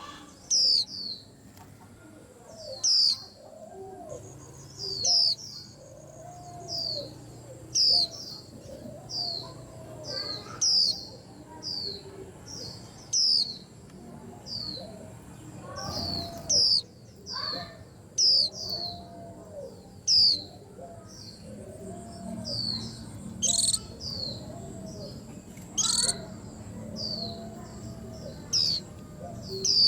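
White-eye (chim vành khuyên) calling in a steady series of short, high, downward-slurred chirps, about one a second, with a few sharper, louder notes among them.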